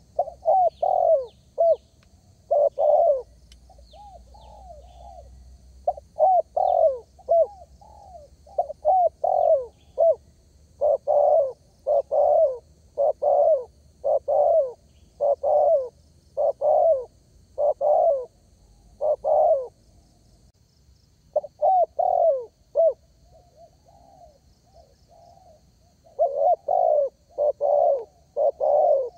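Spotted dove (derkuku) cooing over and over in phrases of short, low coos, with a few seconds' break after about twenty seconds. Faint high chirps of small birds in the first few seconds.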